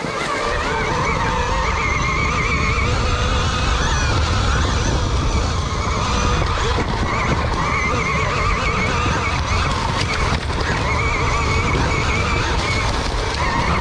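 KTM Freeride E-XC electric dirt bike being ridden on a trail: the electric motor's whine wavers in pitch as the throttle and speed change, over a steady low rumble from the wind and the tyres on the ground.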